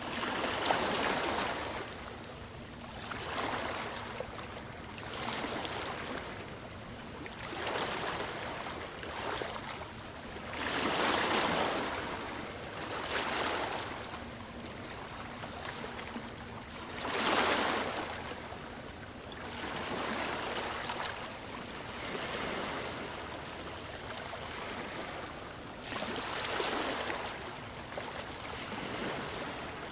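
Sea waves washing onto a shore: surf noise that swells and falls every two to four seconds, with the biggest waves breaking about eleven and seventeen seconds in.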